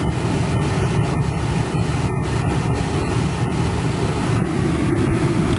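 Heater blower fan blowing hard in a 1998 Chevy C1500 pickup, with the 5.7-liter 350 V8 idling underneath as a steady, even rush.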